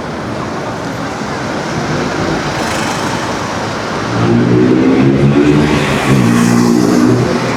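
Busy city street traffic: a motor vehicle's engine passes close, a steady low hum that grows loud about four seconds in and drops away near the end, over general traffic noise and pedestrians' chatter.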